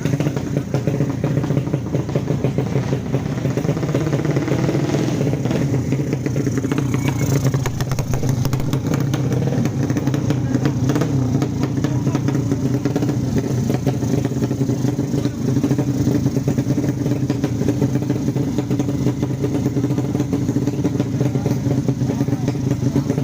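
Drag-race motorcycle engines of the 155 class running loudly and revving, with a few rises and falls in pitch a few seconds in.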